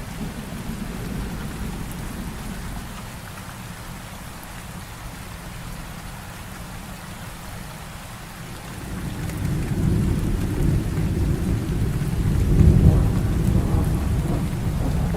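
Heavy rain falling steadily during a thunderstorm, with a deep thunder rumble that swells up about two thirds of the way through and stays loud to the end.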